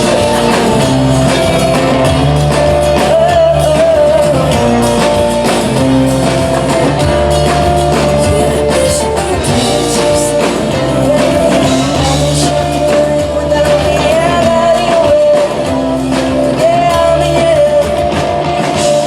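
Loud live pop-rock music from a band through a stage sound system: held bass notes and chords under a wavering sung line.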